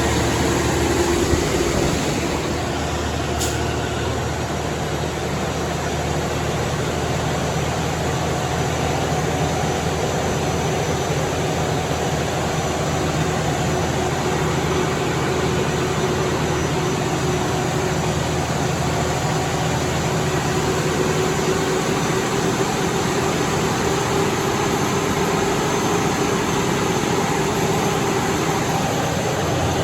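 A Kenworth W900's rebuilt Cat C15 inline-six diesel running steadily under load on a chassis dyno at about 46 mph, with the drive tyres turning on the rollers.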